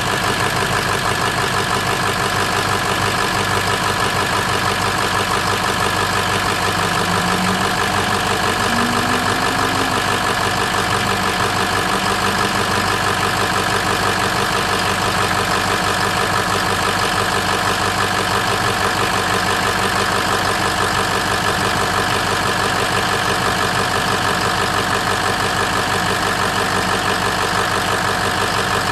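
Engine idling steadily at an even speed, running after being restarted once a loose connection was plugged back in.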